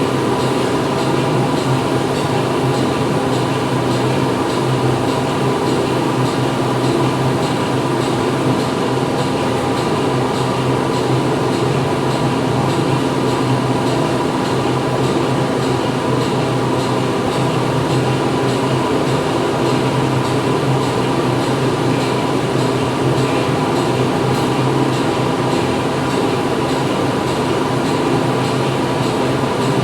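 Steady din of factory machinery: a constant mechanical hum with a dense layer of noise over it, unchanging throughout.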